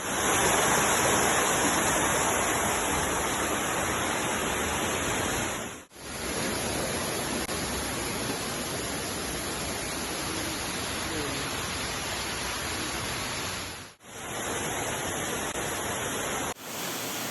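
Waterfall, with water falling and splashing as a steady rushing noise. It drops out briefly about six and about fourteen seconds in, where clips are joined.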